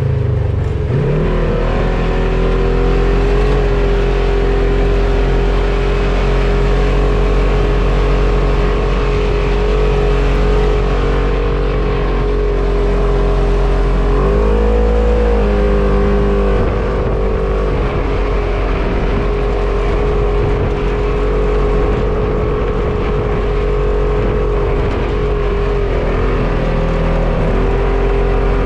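Off-road vehicle engine running at steady revs, rising briefly about halfway through before settling back.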